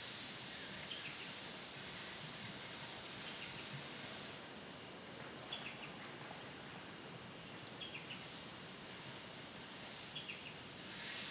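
A bird calling about every two seconds, a short falling chirp each time, over quiet outdoor ambience. A steady high hiss drops out about four seconds in and returns near the end.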